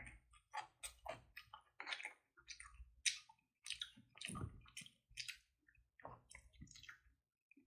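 Close-miked chewing of a garlic bossam wrap of boiled pork: short, irregular wet mouth sounds, several a second.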